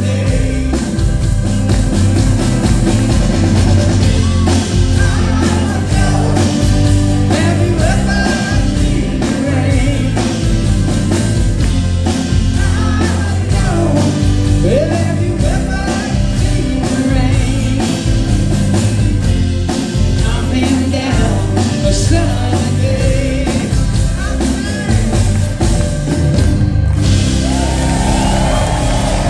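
Live rock band with a lead singer, electric guitars and drum kit, playing loudly and steadily.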